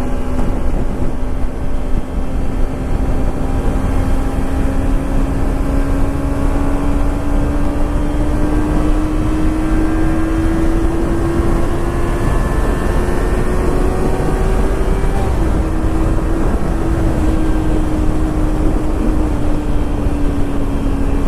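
Kawasaki Ninja 300's parallel-twin engine running at steady cruise, its pitch rising slowly as the bike gathers speed, with a small step down about fifteen seconds in before it eases off. A steady rush of wind and road noise lies under it.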